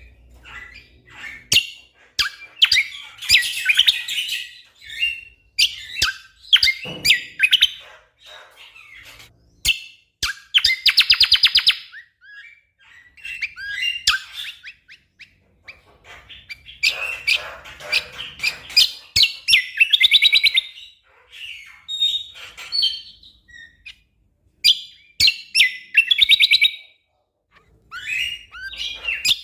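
Common green magpie (cucak kombo) singing in dense bursts of loud, varied whistled and chattering calls separated by short pauses, with a harsh buzzing rattle about ten seconds in.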